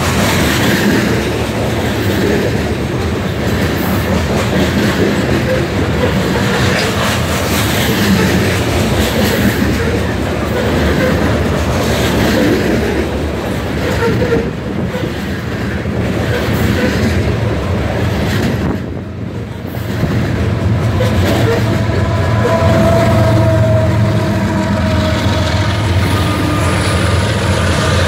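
Covered hopper cars of a Union Pacific grain train rolling past close by: a steady rumble with wheels clacking over the rail joints. In the second half, a thin wheel squeal and the deeper running of the diesel locomotives at the rear of the train join in.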